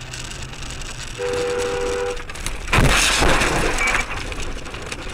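Vehicle horn blaring for about a second over steady road noise. About half a second later a loud, harsh burst of noise lasts about a second: the crash.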